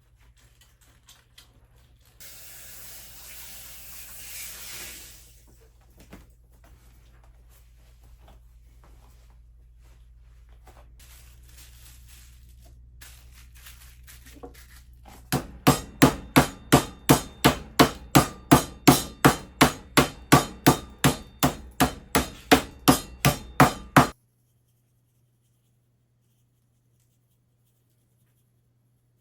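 A loud run of about twenty-five sharp, evenly spaced knocks, about three a second, that stops abruptly. A few seconds of hiss come first.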